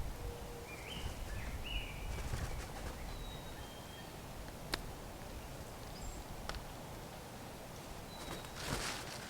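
Wild birds giving a few short calls outdoors, among faint thin whistles, two sharp clicks and a brief rustling burst near the end.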